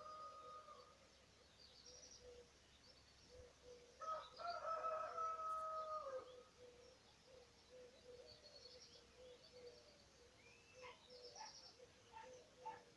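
Birds singing in spring: small birds chirp in high trills while a short low note repeats steadily over and over. About four seconds in comes one louder, long call lasting about two seconds that drops away at its end.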